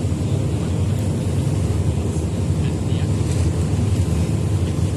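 Steady low rumble of a passenger ferry under way, its engine and hull noise running evenly.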